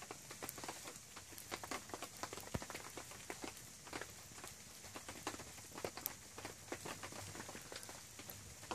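Wood fire crackling, with many small irregular pops and snaps over a faint steady hiss.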